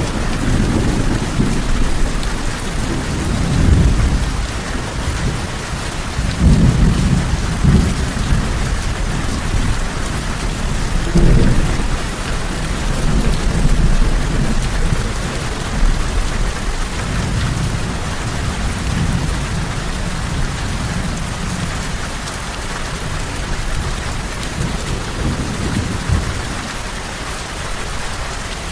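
Steady heavy rain falling, with thunder rumbling and rolling in waves beneath it, loudest in the first half and easing off toward the end.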